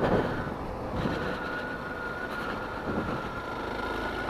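Suzuki DR-Z400's single-cylinder four-stroke engine running steadily while the bike is ridden.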